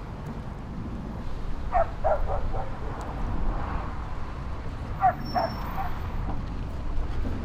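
An animal calling in two short bursts of three or four yelps each, about three seconds apart, over a steady low rumble.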